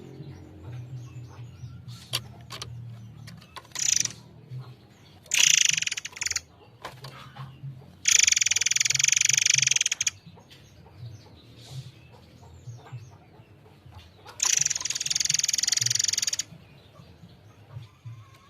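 A murai air mancur songbird singing in loud, shrill bursts of rapid notes. The bursts last from about half a second to two seconds, with quieter gaps between them, and a faint low hum runs underneath.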